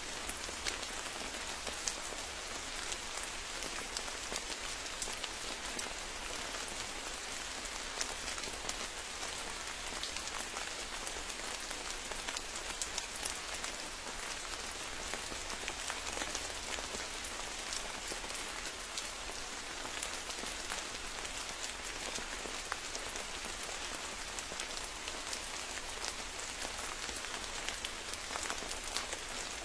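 Steady forest rain: an even hiss of rainfall dotted with many separate drop ticks, unchanging throughout.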